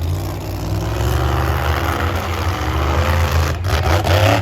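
Methanol fuel-injected monster truck engines running and revving, swelling louder near the end.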